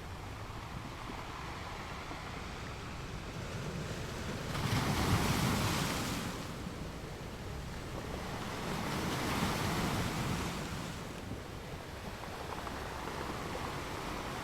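Ocean waves washing onto a beach: a steady wash of surf with two louder waves breaking, one about a third of the way in and another a few seconds later.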